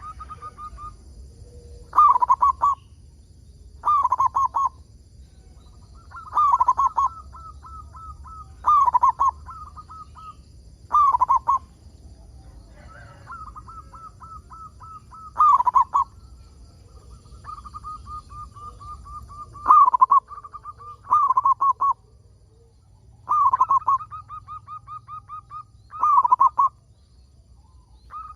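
Zebra doves (perkutut) cooing: short loud phrases of staccato coos about every two seconds, with softer rapid runs of notes in between.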